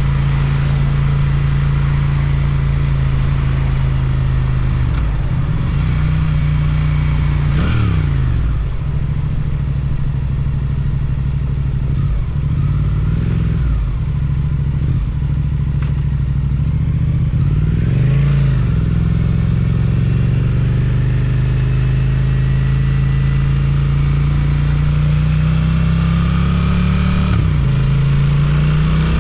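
Suzuki twin-cylinder motorcycle with an Akrapovic exhaust, riding along with the engine note mostly steady. There are short dips and rises in revs around 8 and 18 seconds in, and the revs climb gradually over the last several seconds.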